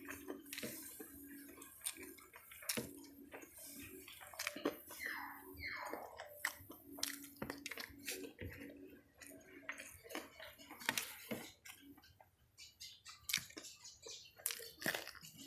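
Close-miked eating sounds from a person eating rice and spicy fried chicken: wet chewing and lip smacking, with many short clicks. A faint low hum comes and goes underneath.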